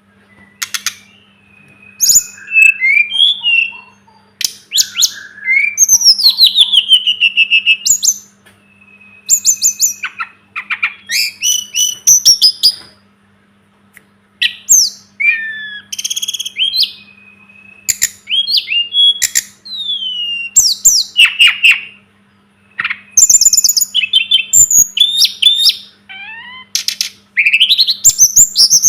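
Tledekan gunung (sulingan gunung) songbird singing: a loud, varied song of high sweeping whistles and fast trilled phrases, delivered in bursts of a second or two with short pauses between them. A faint steady low hum runs beneath.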